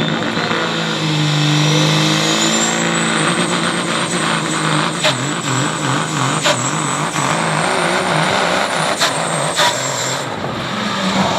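A pro stock semi's Caterpillar 3406 diesel running hard under load, its turbocharger whistle rising over the first few seconds to a high, steady scream. A few sharp cracks come in the middle stretch.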